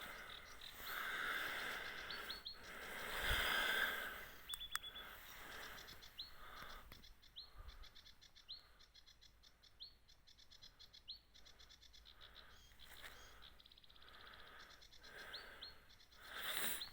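A bird calling over and over with a short, high, upward-hooked note about once a second, over rapid faint ticking. A few swells of rushing noise come and go, the loudest about three seconds in.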